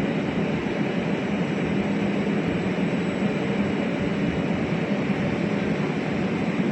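A train rolling past on the station tracks: a steady rumble of wheels on rails with a low hum, unbroken throughout.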